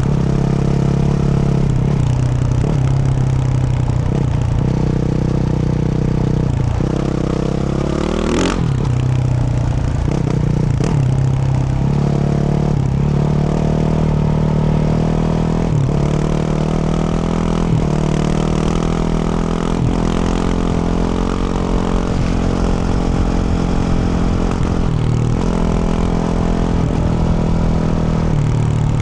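2024 Yamaha YZ450F's single-cylinder four-stroke engine, fitted with a Yoshimura RS-12 exhaust, running while the bike is ridden. Its pitch mostly holds steady and shifts up and down every few seconds with throttle and gear changes, with a quick sweep in pitch about 8 seconds in.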